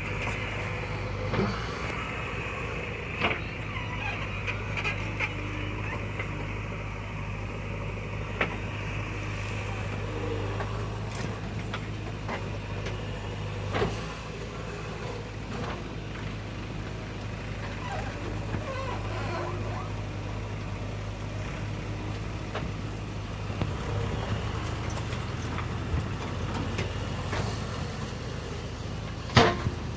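JCB 3DX backhoe loader's diesel engine running steadily under work while loading soil into a tractor trolley, with a few sharp knocks, the loudest near the end.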